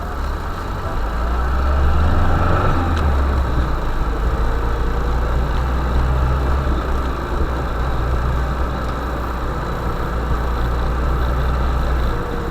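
UAZ-452 'bukhanka' van engine under way, a low drone that picks up about two seconds in and then runs steadily.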